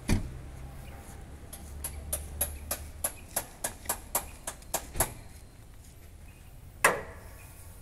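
A Scania 111 truck's diesel engine hum fades away over the first few seconds after a sharp knock. A run of about a dozen sharp clicks follows at roughly three a second, then one loud metallic bang that rings briefly.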